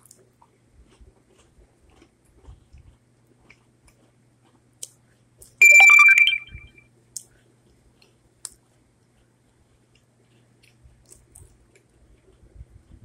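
Faint chewing of chocolate chip cookies, with small clicks and crunches. About six seconds in comes a sudden loud, high-pitched tone lasting about half a second, which then fades quickly.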